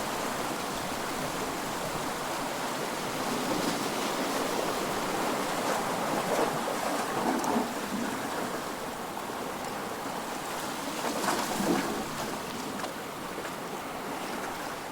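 Ocean surf: a continuous wash of waves breaking on a shore, with a few louder breakers swelling up at intervals.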